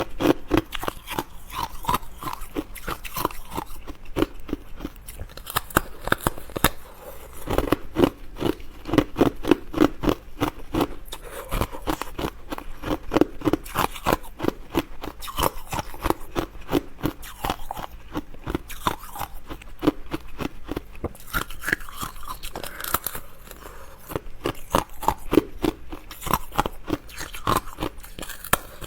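Close-miked chewing of crunchy food: a continuous run of crisp crunching bites, with no pause longer than a moment.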